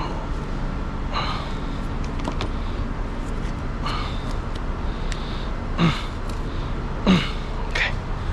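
Steady low workshop hum with short knocks, clatters and squeaks of parts being handled, the two loudest knocks about six and seven seconds in and a brief rising squeak near the end.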